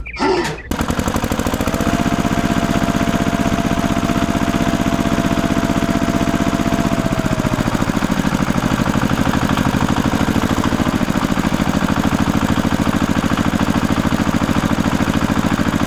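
A small engine running steadily with a fast, even beat. A faint steady whine sounds over it for the first several seconds.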